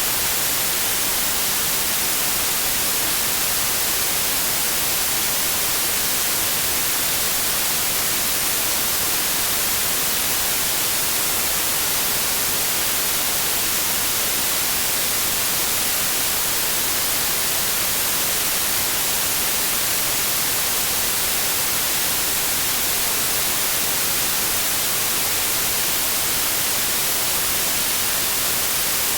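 Steady white noise: an even, unbroken hiss across the whole range, with no tones, rhythm or changes.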